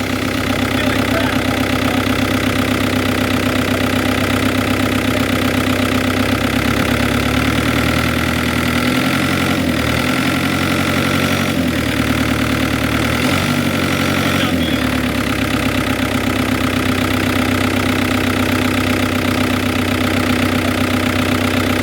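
Farm tractor engine idling steadily just after being started. About a third of the way in its speed dips and wavers for several seconds, with a few faint clunks, then it settles back to a steady idle.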